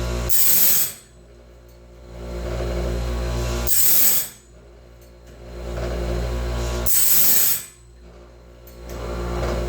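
DIY bandsaw-band sharpening rig working through its cycle: a motor hum builds, then a short, loud grinding rasp, then a sudden drop to a quieter lull. The cycle repeats about every three seconds, three times in all.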